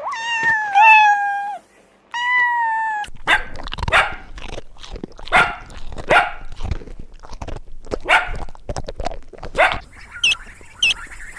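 A dog barking repeatedly in irregular loud barks, after a few seconds of high, drawn-out whining calls that fall in pitch. Near the end, quick repeated bird chirps begin, about three a second.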